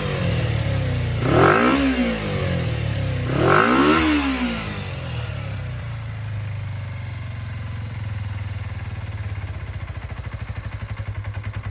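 Kawasaki ZZR250 parallel-twin engine blipped twice, the revs rising and falling quickly each time, then settling to a steady idle.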